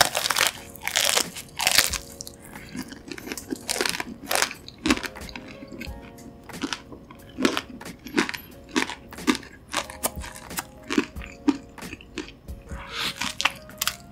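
Crunchy biting and chewing of crispy food on a skewer, close to the microphone, in a rapid irregular series of crunches. Soft background music runs underneath.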